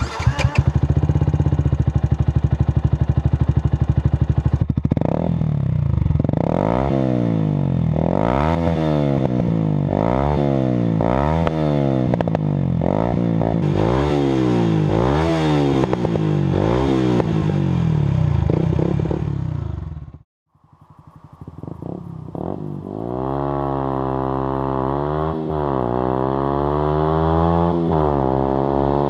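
Yamaha YZF-R125's single-cylinder four-stroke engine, fitted with an Arrow racing non-cat header and an Arrow Street Thunder silencer with no dB-killer, idling and then revved in quick throttle blips about once a second. The sound cuts out briefly about two-thirds of the way through, then the engine is heard running steadily again.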